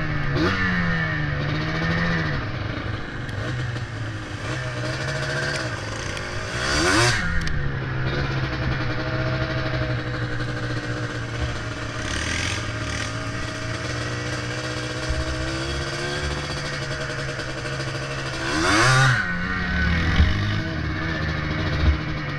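Yamaha Blaster ATV's 195cc single-cylinder two-stroke engine running under load, its pitch rising and falling with the throttle. It revs up sharply about seven seconds in and again about nineteen seconds in.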